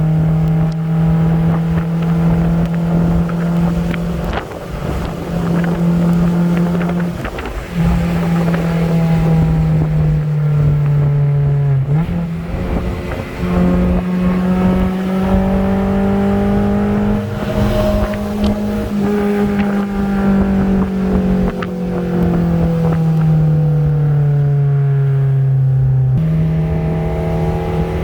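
Honda four-cylinder car engine running hard on the road. Its note climbs and sinks with the throttle, cuts out briefly a few times as gears change, and jumps up in pitch near the end.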